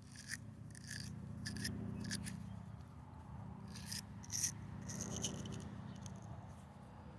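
Irregular crackling clicks and scraping as a gummed-up fuel strainer fitting at an excavator's water separator is unscrewed by hand, the crackling coming from the gunk in the threads, over a low steady hum.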